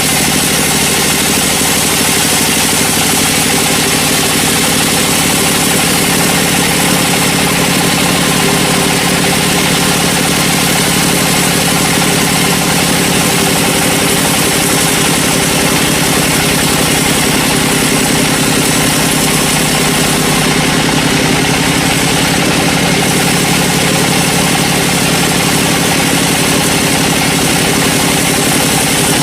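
Sawmill engine running steadily at a constant speed, with an even high hiss over it.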